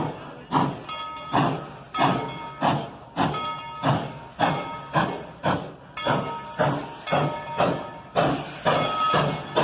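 1943 Baldwin narrow-gauge steam locomotive No.190 chuffing as it works, its exhaust beats sharp and even at about one and a half a second, with steam hiss.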